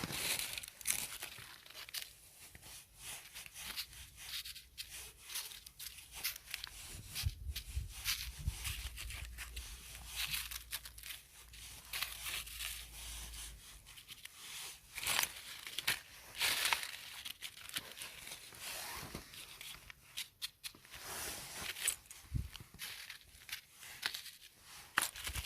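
Close, irregular crackling and rustling: a dense string of short scratchy tearing and crinkling sounds.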